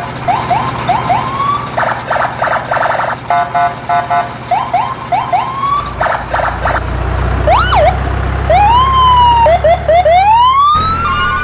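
Siren sounds: short rising whoops, then a rise-and-fall wail and long rising wails, with bursts of rapid pulsed beeping between them. A low rumble runs through the second half.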